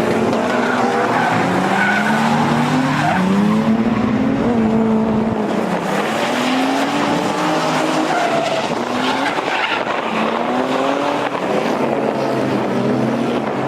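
Drift cars running in tandem: more than one engine revving up and down against each other over the steady hiss and squeal of tyres sliding on the track.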